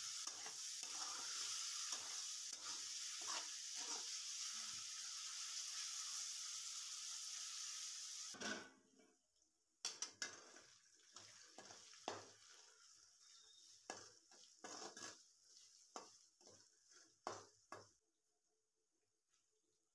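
Diced chicken sizzling in hot oil in a metal wok while a spatula stirs and scrapes the pan. About eight seconds in the sizzle cuts off suddenly, and only separate spatula scrapes on the pan are left, stopping near the end.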